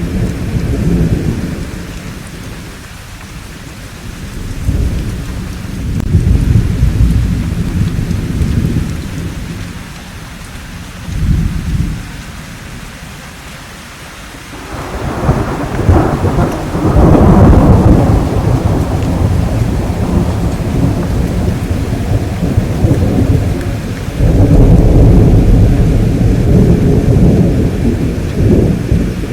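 Thunderstorm: steady rain with repeated rolls of thunder. The loudest peal starts about halfway, a sharper clap that rumbles on for several seconds, and another long rumble swells up near the end.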